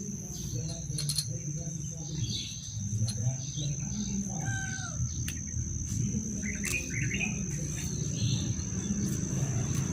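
Small birds chirping in short, scattered calls over a steady high-pitched insect drone and a low background rumble.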